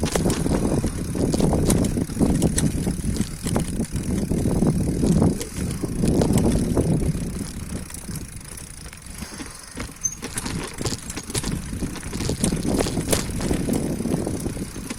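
Bicycle being ridden over a rough road: a low rumble that swells and fades, with many sharp rattles and clicks, quieter for a few seconds past the middle.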